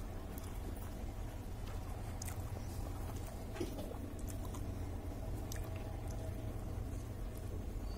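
Soft wet chewing and squishing of rice and fish curry eaten by hand, with scattered small clicks, over a steady low hum.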